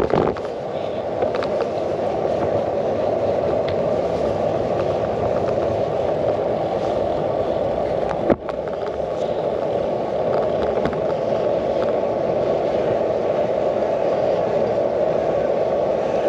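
Steady rushing noise of a bicycle ride heard from a handlebar-mounted camera: tyre roll and wind on the microphone, with scattered small rattles and a single sharp knock about eight seconds in.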